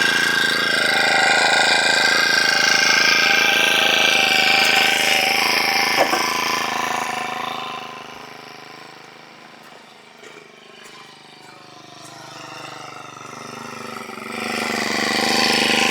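An engine running loudly and steadily, dropping to a low level about eight seconds in and building up again near the end, with a single sharp knock about six seconds in.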